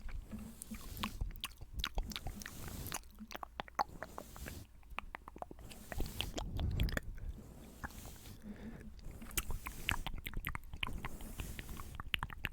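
Close-miked ASMR mouth sounds: dense, irregular wet clicks and smacks, with soft brush strokes on the microphone making a low rumble about six seconds in.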